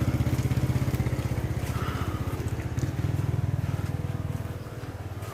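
Motor vehicle engine running close by, a steady low throb that swells about halfway through and fades near the end.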